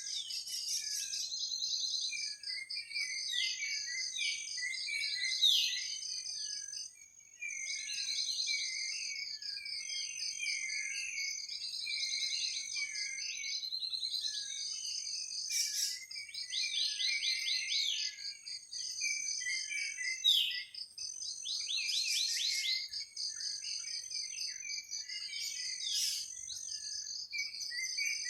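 Night forest chorus: insects trill steadily with pulsing, high-pitched buzzing, over many short, falling chirping calls that repeat again and again. The chorus briefly thins out about seven seconds in.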